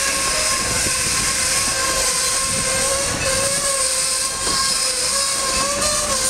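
Wooden passenger coaches of a steam-hauled heritage train rolling slowly along the track past the platform: steady wheel-and-rail rumble under a constant hiss, with a thin, slightly wavering squeal throughout.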